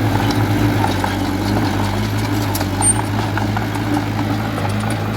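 Heavy diesel engine of construction machinery running steadily at an even pitch, with a few faint clicks and clanks.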